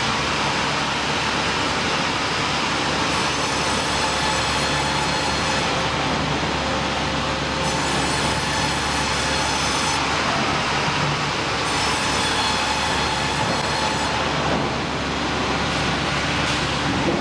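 Sawmill machinery running: a steady, loud mechanical noise, with a higher hiss that comes and goes about every four seconds.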